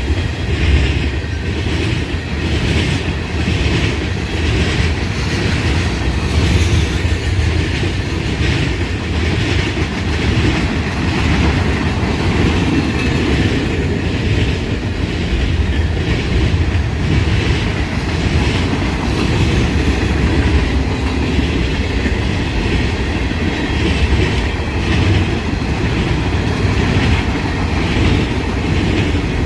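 Freight train rolling past, its cars' wheels clicking steadily over the rails.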